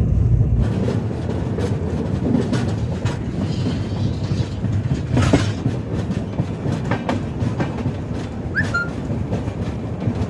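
Express passenger train running on the track, its wheels clattering over the rail joints under a steady rumble, with scattered clicks, a louder knock about halfway and a short high squeak near the end.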